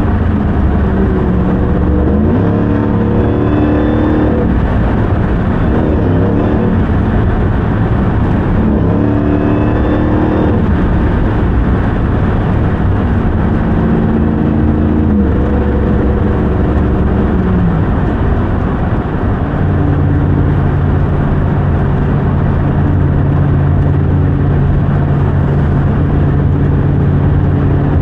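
2021 Ram 1500 TRX's supercharged 6.2-litre Hemi V8 pulling the truck along, its note climbing and dropping with the gear changes through the first half, then holding a steady pitch at cruise from about twenty seconds in.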